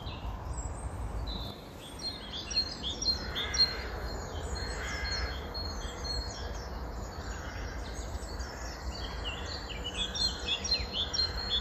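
Small songbirds chirping and singing in a dense run of rapid, high chirps that grow busier about two seconds in, over a low steady rumble.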